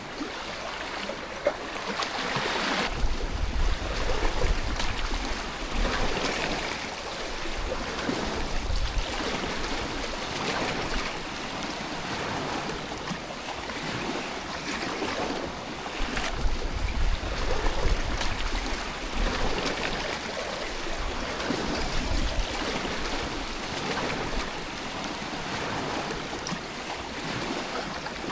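Rushing river water, a steady churning wash, with low rumbles of wind on the microphone now and then.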